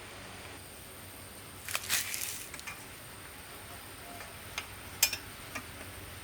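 A few light clicks and knocks: a short cluster about two seconds in, then three single sharp clicks near the end, over a quiet steady background.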